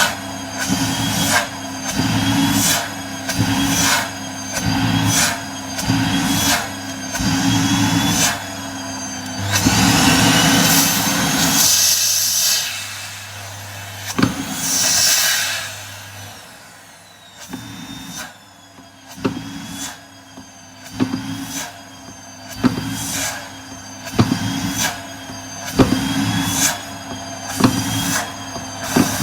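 Vacuum cleaner suction coming in short repeated pulls, about one a second, each with a low hum and a high whistle that bends in pitch. Near the middle there is a longer steady pull, then a quieter spell with a falling whistle, before the short pulls start again.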